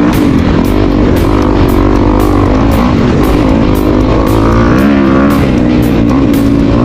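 Dirt bike engine running and revving, its pitch rising and falling, mixed with rock music with a steady beat.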